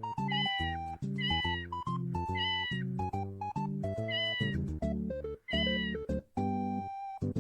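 Cat meows set to a keyboard tune: about five short meows, roughly one a second, over plodding chords.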